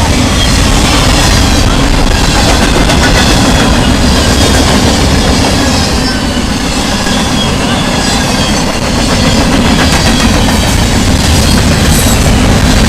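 Norfolk Southern freight train rolling past close by: a loud, steady rumble of wheels and cars on the rails.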